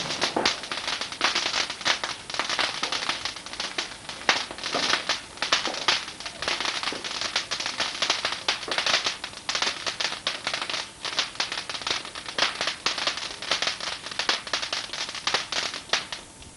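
Firework crackling: a dense, irregular run of small sharp pops and cracks that cuts off suddenly near the end.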